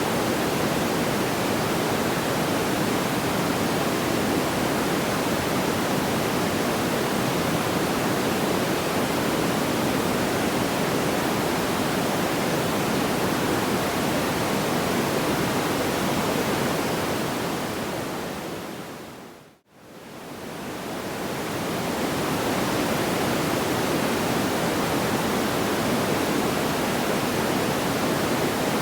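Steady, even rushing noise like pink noise, with no separate crackles or pops. About two-thirds of the way through it fades smoothly down to silence and swells back up over a couple of seconds.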